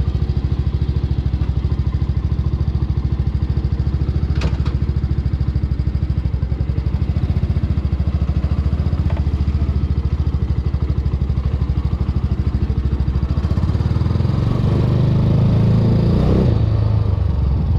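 Venom x22R 250cc motorcycle engine idling with an even exhaust pulse. About three-quarters of the way through it grows louder and fuller for a few seconds, then settles back to idle.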